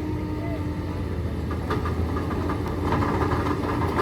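Heavy construction-machine diesel engine running steadily, joined about two seconds in by a fast metallic clattering and rattling.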